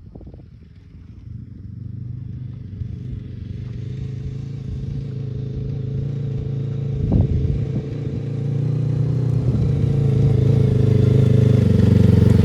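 Motorcycle engine running at a steady pitch and growing steadily louder as it approaches, with a brief knock about seven seconds in.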